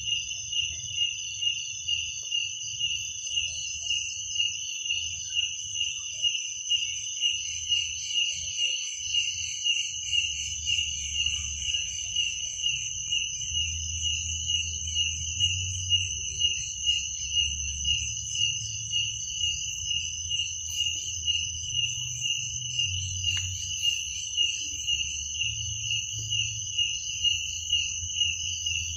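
Crickets chirping at night in a steady rhythm, about two pulses a second, over a continuous higher-pitched insect trill, with a faint low rumble underneath.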